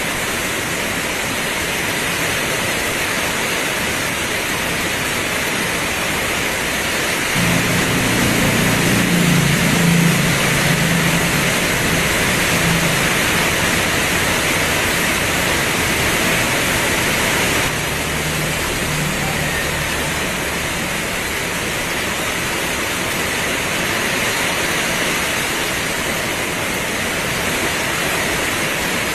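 Heavy rain pouring in a steady, dense hiss. About seven seconds in, a low humming rumble joins it and lasts around ten seconds before stopping.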